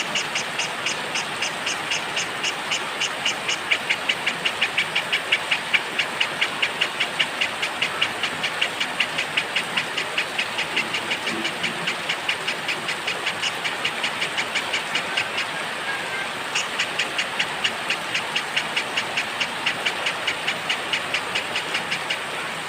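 Steady hiss of rain with a small bird's high chirps repeated rapidly and evenly, about five a second, breaking off for about a second two-thirds of the way through and then resuming.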